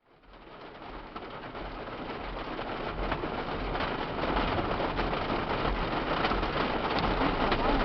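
Steady rain falling, fading in from silence over the first few seconds, with scattered sharper drop hits.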